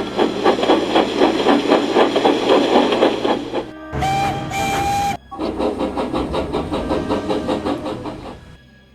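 Steam locomotive sound effects: rhythmic chuffing as the engines pull away, broken about four seconds in by a two-part steam whistle of about a second, then the chuffing resumes and fades near the end.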